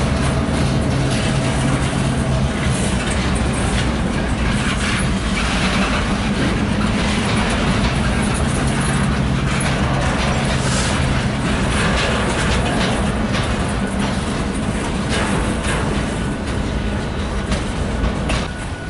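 Freight cars rolling past at close range, covered hoppers and then centerbeam lumber flatcars: a steady rumble and clatter of wheels on rail, with a low steady hum underneath.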